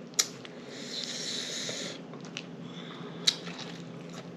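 Close-miked eating of chicken taco salad: a bite taken and chewed. There is a sharp click near the start and another about three seconds in.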